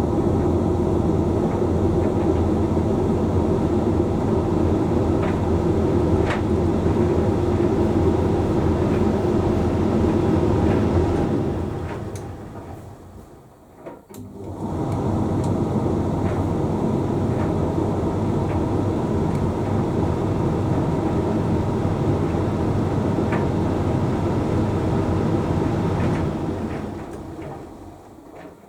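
Hoover Link X Care condenser tumble dryer running mid-cycle: a steady motor hum with the drum tumbling a load, a few light clicks from the load. About halfway through the motor winds down to a brief pause and starts again, and it winds down again at the end, as the drum stops to change its tumbling direction.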